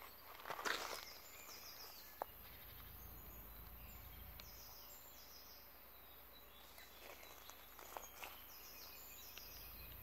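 Faint footsteps in the first second and a few more near the end. Between them a small bird repeatedly calls short runs of high notes that fall in pitch.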